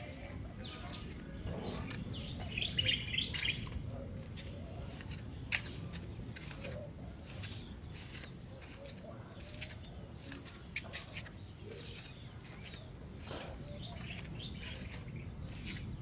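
Birds chirping, with a quick cluster of high chirps about three seconds in and scattered single calls after, over a low steady rumble.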